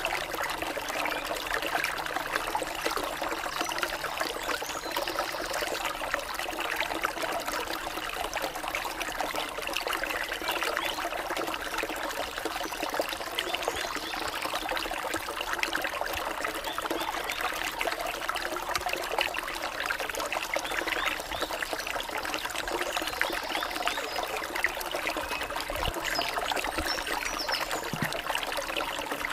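Running water of a small stream, trickling and babbling steadily.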